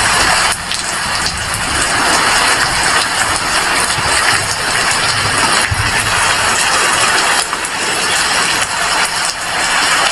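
Heavy rain falling, a steady dense hiss with a low rumble underneath.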